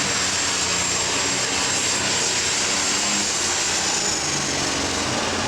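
Turbocharged diesel super stock pulling tractor running hard, a dense steady engine noise with a high turbo whine that dips slightly about four seconds in.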